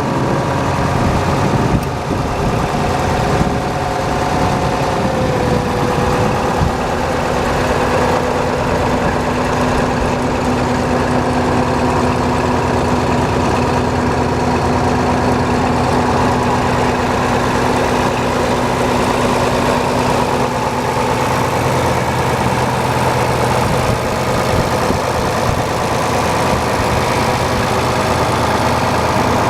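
John Deere 4230 tractor's six-cylinder diesel engine idling steadily, its pitch easing down slightly about five seconds in.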